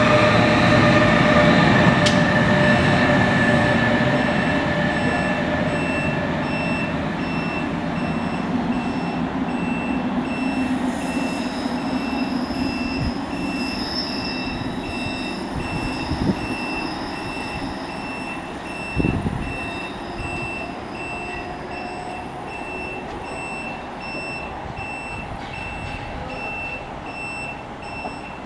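An NJ Transit commuter train with an ALP-46 electric locomotive on the rear pulls away, its rumble and rail noise fading over about ten seconds into wind noise. A high beep pulses steadily through most of it, and a single low thump comes about two-thirds of the way in.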